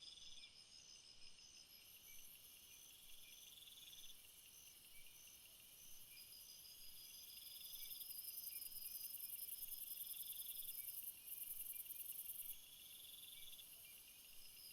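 Faint insect chorus of crickets and other insects. Several high chirp trains pulse steadily, and one repeats a trill about a second long every couple of seconds, over a high buzz that grows louder about halfway through and cuts out briefly near the end of that stretch.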